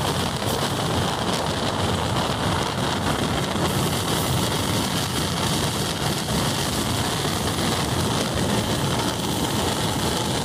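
Steady running noise of a moving train, an even rushing roar that holds at one level without a break.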